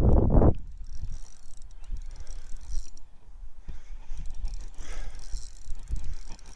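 Fishing reel being cranked as a catfish is reeled in, a faint mechanical ticking, with a steady low wind rumble on the microphone that is loudest in the first half-second.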